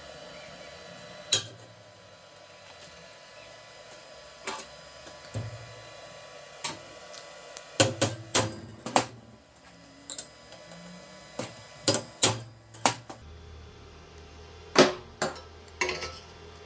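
Irregular sharp metal clicks and knocks of tools and parts being handled at a workbench, about sixteen in all, over a steady low hum.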